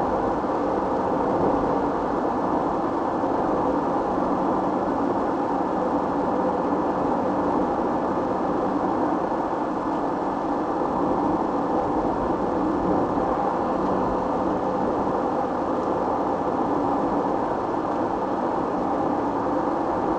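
Steady road and engine noise of a moving car heard from inside the cabin through a dashboard camera's microphone, with a faint steady hum and no sudden events.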